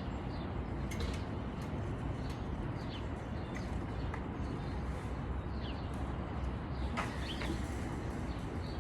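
Scattered short bird chirps, each sliding down in pitch, over a steady low rumble, with a couple of sharp clicks, about a second in and about seven seconds in.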